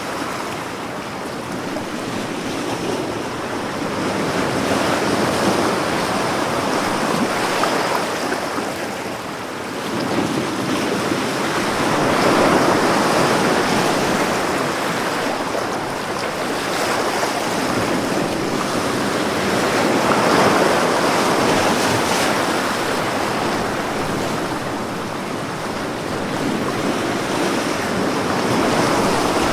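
Ocean waves breaking and washing on a beach, a steady rush of surf that swells and ebbs every few seconds.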